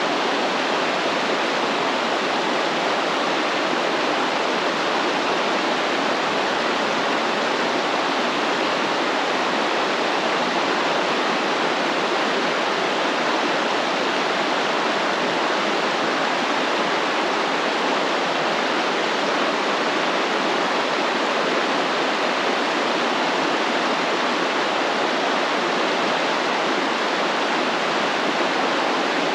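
Stream water flowing steadily: an even, unbroken rushing with no distinct splashes or changes.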